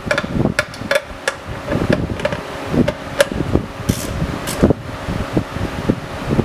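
Socket wrench working the oil drain bolt back in: irregular metallic clicks and clinks of the ratchet and socket on the bolt, over the steady hum of a fan.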